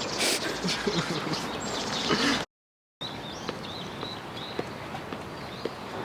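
Small birds chirping in short, repeated calls over a steady outdoor background, heard after the sound drops out completely for about half a second partway through.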